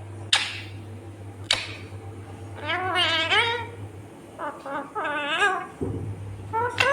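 Ringneck parrot calling: a couple of sharp short squawks, then wavering, warbling calls that rise and fall in pitch, over a low steady hum.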